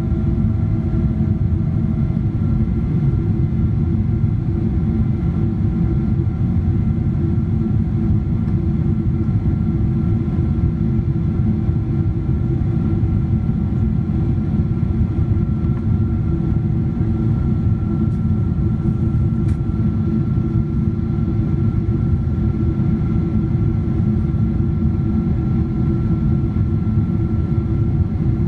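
Steady cabin noise of a Boeing 777-200ER with Pratt & Whitney PW4090 turbofans: a deep, even rumble with a few steady engine tones above it. One of the tones stops about two seconds in.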